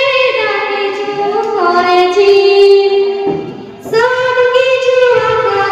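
High voice singing a Bangla ghazal, drawing out long, gliding held notes in two phrases with a short breath about three seconds in.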